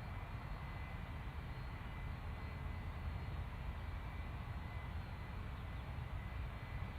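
Distant jet airliner engines running steadily, a faint high whine over a low rumble.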